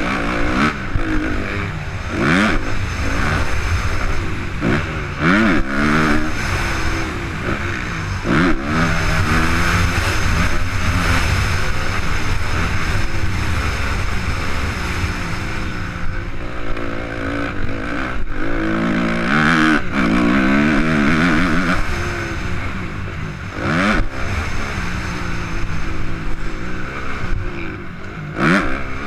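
Suzuki RM-Z 250 four-stroke single-cylinder motocross engine under hard riding, its pitch climbing and dropping again and again as the throttle is opened and shut through the gears.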